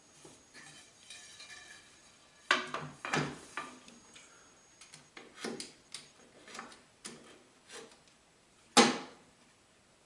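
Small metal hardware and fence parts clinking and knocking as they are handled and fitted, with a cluster of clatter a few seconds in and one sharp knock near the end.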